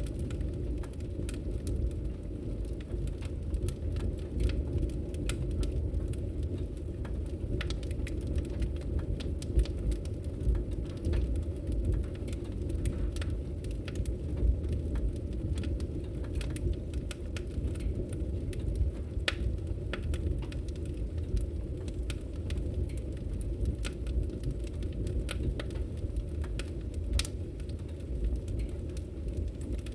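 Wood fire burning in a fireplace: a steady low rumble of flames with sharp crackles and pops scattered irregularly.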